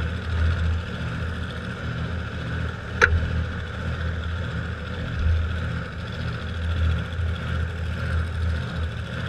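A vehicle engine running steadily with a low hum, and a single sharp click about three seconds in.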